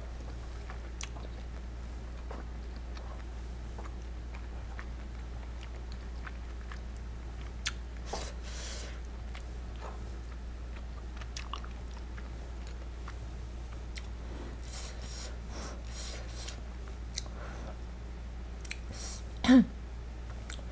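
Close-miked chewing and wet mouth sounds of someone eating creamy shrimp penne pasta, with scattered light clicks, over a steady low hum. A short, loud voiced sound comes near the end.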